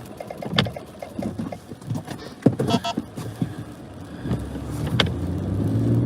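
Vehicle cabin noise while driving, with a few sharp clicks. About four seconds in, a steady, deeper engine hum sets in and grows louder.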